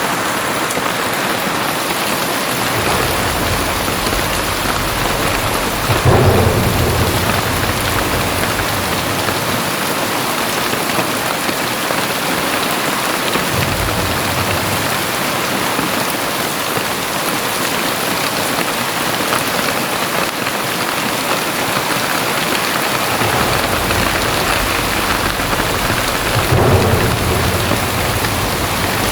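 Very heavy rain pouring steadily, with two long deep rumbles swelling up and fading, one peaking about six seconds in and the other near the end.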